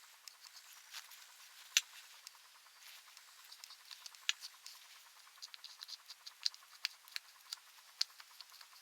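Irregular light clicks and taps from hand work on small parts, a few sharper clicks among them, at their loudest about two seconds in and thickest in the second half.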